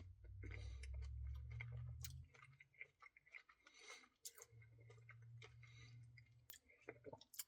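Faint chewing and small mouth clicks of a person eating, with a low hum that stops about two seconds in and comes back for a while midway.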